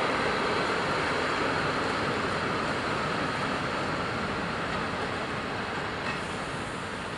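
Freight train wagons rolling past on a far track, a steady rumble of wheels on rails that slowly gets quieter.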